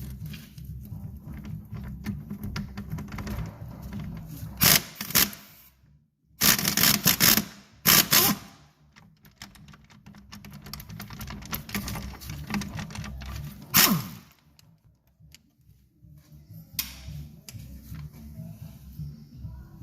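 Workshop tool noise from car suspension work: a run of rapid small clicks and clatter, with a few loud short bursts about five, seven, eight and fourteen seconds in.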